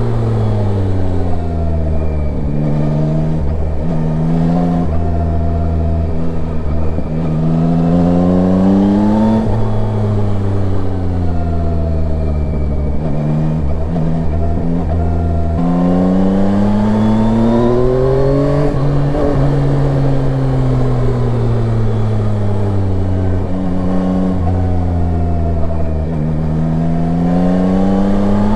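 Yamaha Tracer 9's three-cylinder engine running under way, its pitch climbing with the throttle and then falling off several times as the rider accelerates and eases off, with steady wind and road rush underneath.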